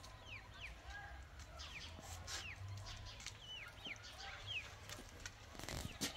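Birds chirping repeatedly, each call a short, quick falling note, over a faint low hum. A few sharp clicks and knocks near the end.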